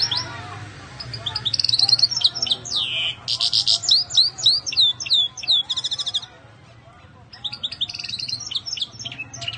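Small caged birds chirping and twittering in quick runs of high, sweeping notes, with a pause of about a second partway through.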